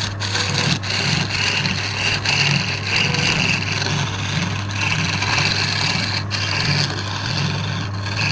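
Wood lathe running with a steady hum while a turning tool cuts the spinning wood, a scraping hiss that swells and fades every second or so.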